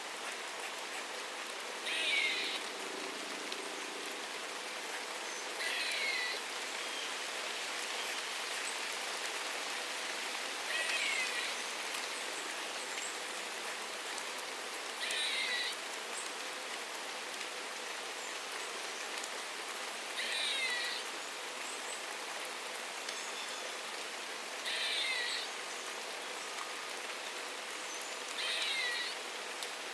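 Steady rainfall with a bird calling seven times, roughly every four to five seconds. Each call is a short run of quick notes falling in pitch.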